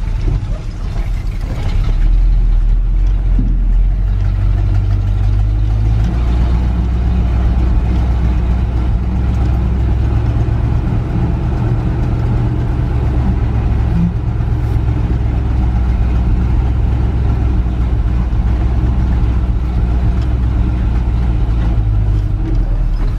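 1977 GMC K25 pickup's engine running after winter storage, a steady low exhaust drone that comes up in level about two seconds in and then holds, as the truck is pulled out.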